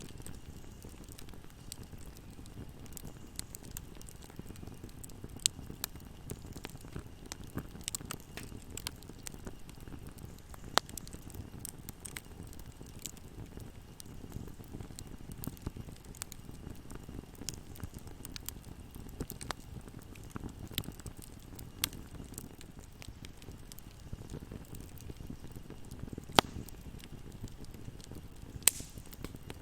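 Wood fire burning in a fireplace: a steady low rumble of flames with constant irregular crackling, and a few sharper, louder pops now and then.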